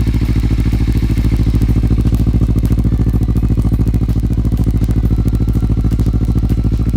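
Kawasaki Ninja 300's parallel-twin engine idling steadily through a Two Brothers Black Series slip-on exhaust, an even, deep exhaust note with no revving.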